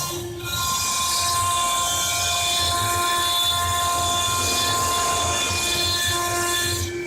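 CNC stone-carving machine running, its spindle cutting stone: a steady whine of several held tones over a harsh grinding hiss, with a brief dip just after the start.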